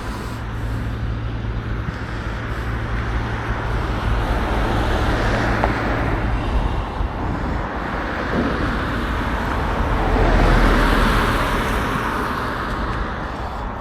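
Road traffic noise: vehicles passing, swelling and fading, with the loudest pass about ten seconds in.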